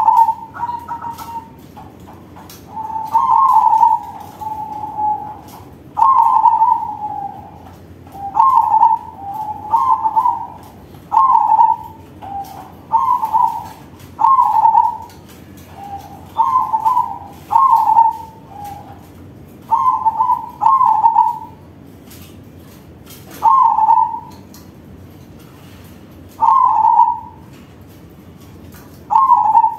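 Crossbred perkutut (zebra dove) singing: a string of short, loud, rolling coos at one pitch, repeated every second or two, several coming in quick pairs.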